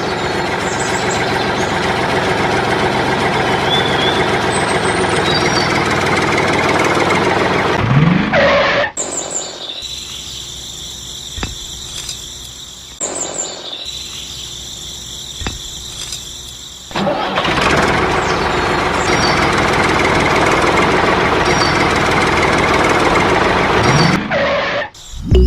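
Engine running noise of a mini DIY tractor or bulldozer, loud and steady. In the middle it drops to a quieter stretch with a steady high whine, then comes back up. Three short rising pitch swoops, like brief revs, come a few seconds before each change.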